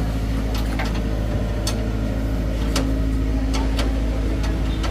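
An engine running steadily with a low rumble, with scattered light clicks and taps over it.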